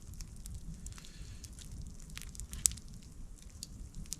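Campfire crackling quietly, with scattered sharp pops over a low rumble; the loudest pop comes about two and a half seconds in.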